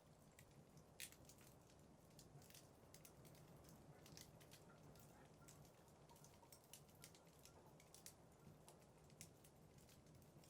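Wood fire burning in a fireplace, crackling faintly: scattered sharp snaps and pops, one of the loudest about a second in, over a low steady rumble.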